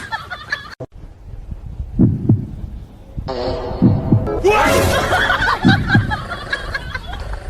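Low, dull thumps in pairs, like a heartbeat's double beat, three times about two seconds apart, over a busier background.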